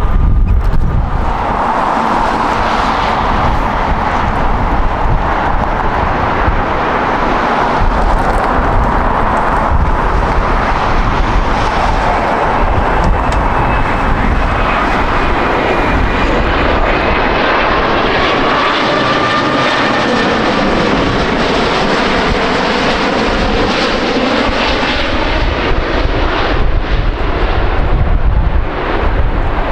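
A jet airliner passing close by, a loud steady roar of engine and air noise with a faint whine from the engines heard in the middle, the upper treble dropping away in the second half as it moves off.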